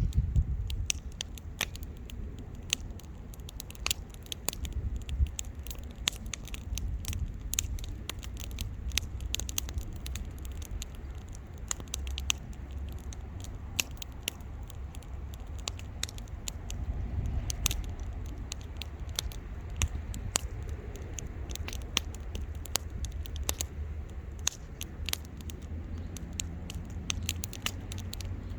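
Wood fire crackling, with many irregular sharp pops and snaps over a low rumble.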